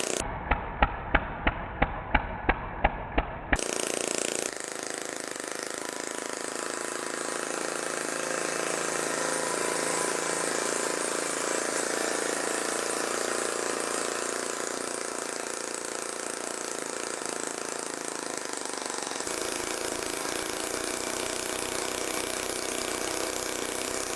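Small homemade engine converted from a refrigerator compressor, running: sharp regular firing pops about three a second for the first few seconds, then a steady, even running noise.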